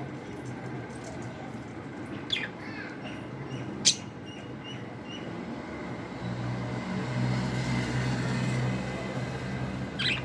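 Pet budgerigars giving a few short, scattered chirps, the sharpest about four seconds in, over a steady low hum.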